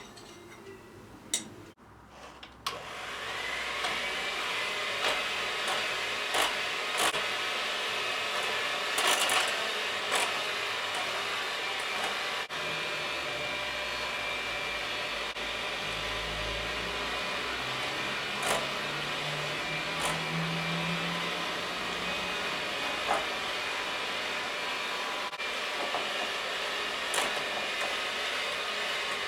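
Electric hand mixer starting up, its whine rising, then running steadily, with occasional knocks of the beaters against the bowl, as in whipping separated egg whites.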